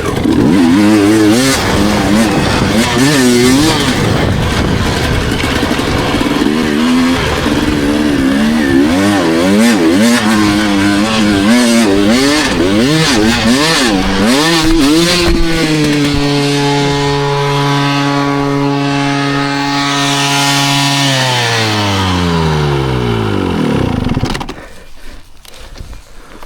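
Dirt bike engine being ridden hard, revs rising and falling over and over with wind rush. About 15 s in it holds a steady note for several seconds, then the revs fall away smoothly and the engine goes much quieter near the end.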